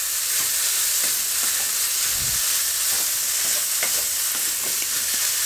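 Thick chilli-tamarind paste with minced pork sizzling in oil in a nonstick pan, stirred and pushed around with a wooden spatula. There is a steady high sizzle with light, irregular scraping ticks from the spatula.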